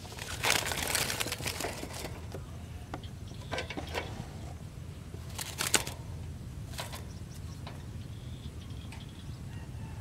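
A trapped bird flapping and scuffling in a burst lasting about a second and a half, then a few sharp clicks and knocks as the wire birdcage holding it is handled.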